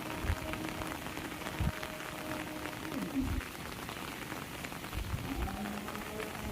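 Heavy rain falling steadily, with a few dull thuds scattered through it.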